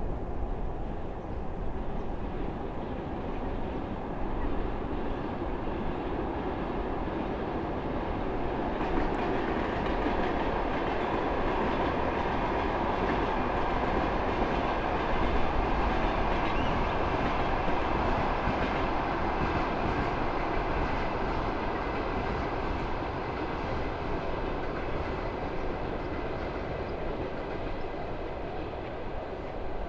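A train passing on a nearby railway line, a continuous rumble with wheel-on-rail noise that swells to its loudest about halfway through and then eases off slightly.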